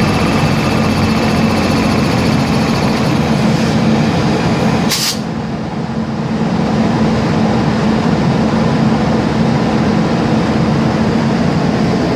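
Steady, loud mechanical running noise like a vehicle under way, with a low steady hum. A sharp click comes about five seconds in, after which the high hiss fades.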